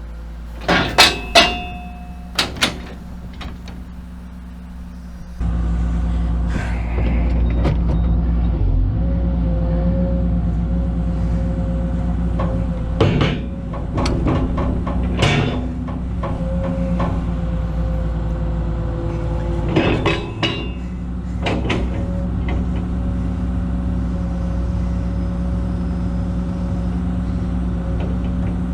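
A few sharp metal clanks with a short ringing tone. Then, about five seconds in, an excavator's diesel engine comes up louder and runs steadily under load, with further clusters of metal clanks and knocks partway through.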